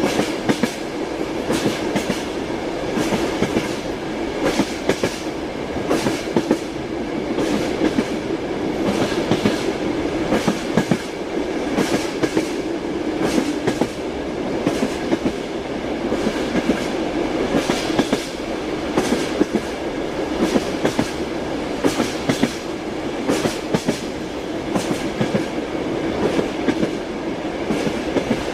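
Passenger train wheels clacking over rail joints, heard from inside a sleeping compartment. The clacks come in irregular clusters over a steady running rumble.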